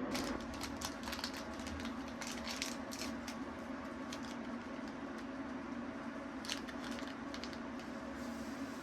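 A run of light, quick clicks and taps during the first few seconds and again about two-thirds of the way through, over a steady low hum.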